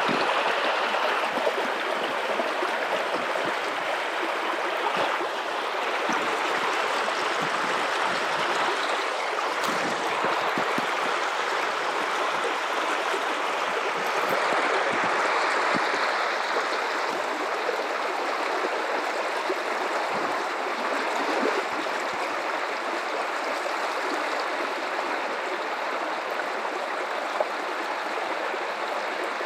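River water running over rocks in a steady, full rush with gurgling. A faint click comes near the end.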